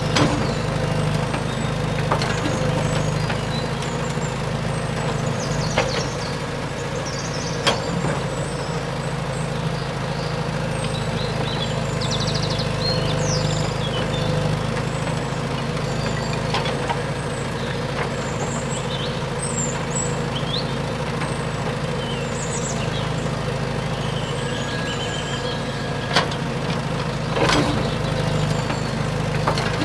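Small DC electric motor of a DIY mini tractor or JCB running steadily with a hum, with a few sharp clicks and short high chirps over it.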